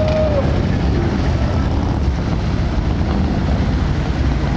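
Many motorcycle engines running together in a steady, dense low rumble.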